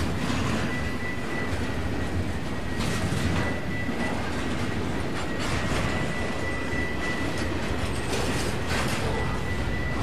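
Train rolling past with a steady rumble of wheels on rail and a few scattered clacks over the rail joints. A thin high whine from the wheels on the rails comes and goes.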